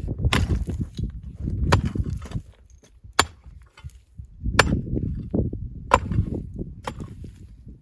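Sharp knocks repeating about every second and a half, with rough crunching and scraping in between.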